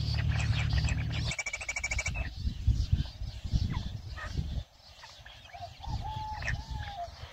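Small birds chirping, with a fast pulsing trill about a second in and a short bending whistle near the end. A low rumble underlies the first half and stops about four and a half seconds in.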